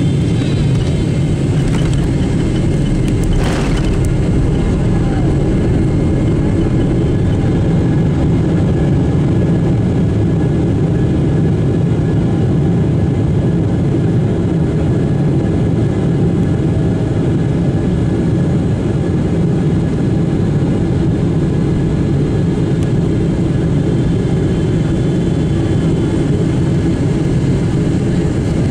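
Cabin noise inside a Boeing 777-300ER coming in to land: the steady rumble of airflow and its GE90 jet engines, with faint steady whines. A brief click sounds about three and a half seconds in.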